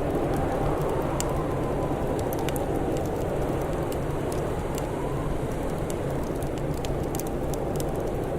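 Crackling fire: scattered sharp pops and snaps over a steady, dense rushing noise.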